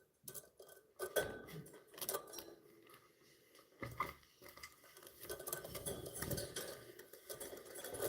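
Budgerigars chattering: quick scratchy chirps mixed with many sharp clicks and clinks. It starts abruptly just after the beginning and grows busier toward the end.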